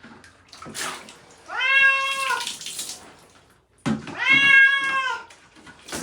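Domestic cat meowing in distress while being given a bath: two long, drawn-out meows, each about a second, the first about one and a half seconds in and the second near the end, each rising slightly in pitch then falling away.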